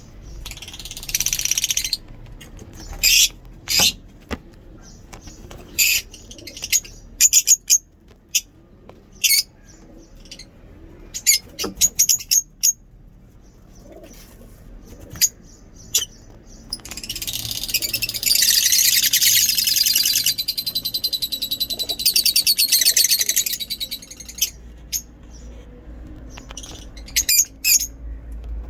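Lovebirds calling: scattered short, high-pitched chirps, and a long, rapid chattering run lasting several seconds from a little past the middle.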